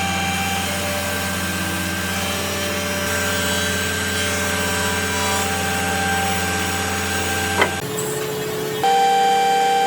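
A workshop power tool running steadily with a whine over a low hum. A sharp click comes about three-quarters of the way in, then the sound changes, and a louder, higher, steady whine takes over near the end.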